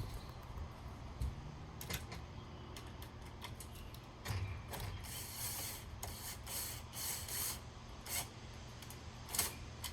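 Screws being driven by hand into a metal door bracket, with scattered clicks and a run of short rasping, ratchet-like bursts from about five to seven and a half seconds in.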